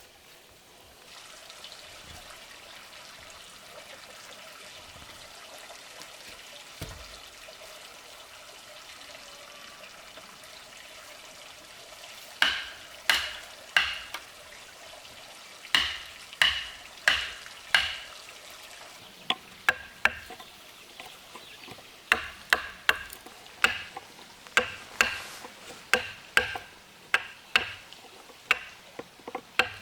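Faint steady background noise, then from about twelve seconds in a hand tool striking over and over with sharp, ringing blows, about one to two a second in short runs, as in building work on a wooden house.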